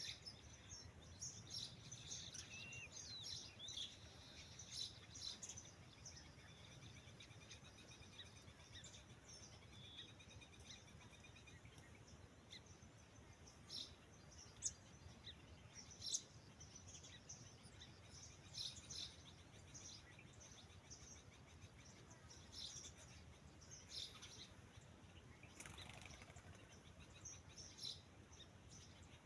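Faint, scattered bird chirps, short and high-pitched, coming on and off over a quiet outdoor background hiss.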